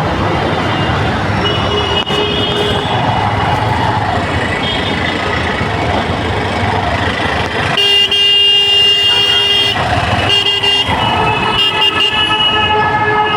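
Jammed road traffic: engines running, with repeated horn honking. One long horn blast about eight seconds in is the loudest sound, followed by several shorter honks.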